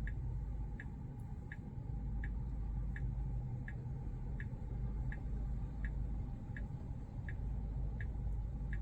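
Tesla's turn-signal indicator ticking steadily inside the cabin, about one tick every 0.7 seconds while the car's self-driving has the blinker on, over low road and cabin rumble.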